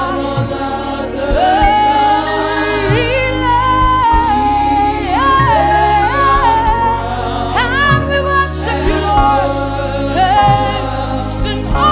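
Gospel worship song performed live: sung melody lines that slide and hold, with backing voices, over instrumental accompaniment and a sustained bass.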